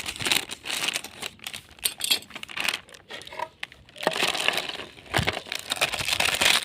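Plastic snack packet crinkling and crackling as it is handled and opened, in two long stretches with a quieter gap in the middle.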